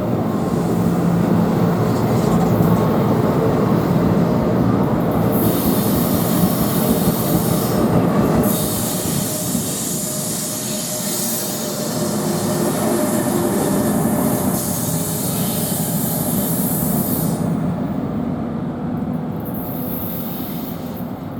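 NJ Transit passenger train running on the curved track through the station: a steady rumble of train and wheels throughout. A high hiss comes in about five seconds in, breaks briefly near eight seconds, and fades out around seventeen seconds.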